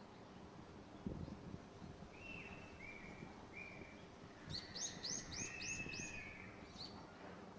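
Small birds calling over gusting wind: three short chirps, then a quick series of five higher notes with a longer call beneath. Wind buffets the microphone about a second in and again in the second half.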